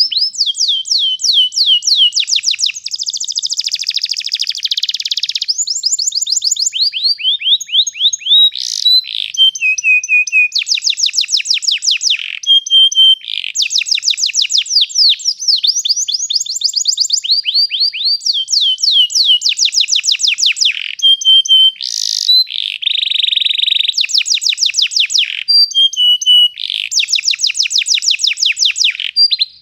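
Domestic canary singing a long, unbroken rolling song: runs of fast, evenly repeated down-sweeping notes, each run lasting a second or two, following one another with hardly a pause.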